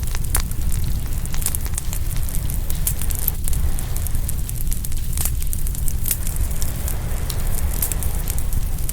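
Open wood fire crackling and popping, with frequent sharp irregular pops over a steady low rumble.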